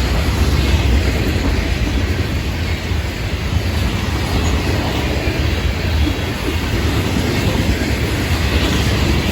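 Cars of a Florida East Coast Railway freight train loaded with rock and fly ash rolling past: a steady, loud rumble with the wheels clacking over the rails.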